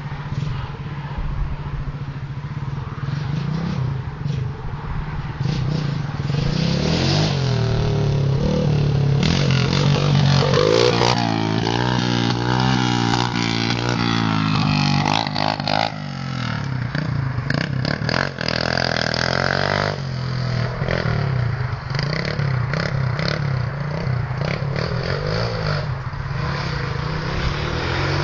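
Pit bike engine running and revving, its pitch rising and falling again and again, loudest about ten to fifteen seconds in.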